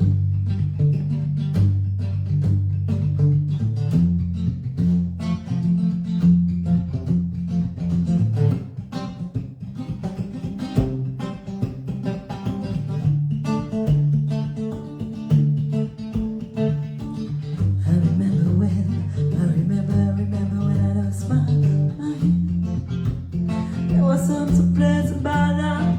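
Guitar playing plucked chords over a deep, moving bass line: the instrumental opening of a live cover song, before the vocals come in.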